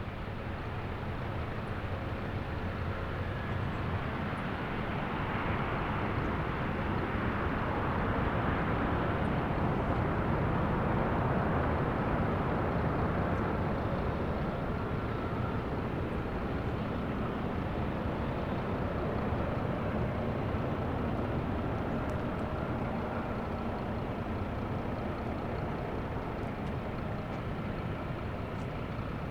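Jet airliner engines passing: a broad rushing noise with a faint whine in it, swelling over the first ten seconds or so and then slowly fading.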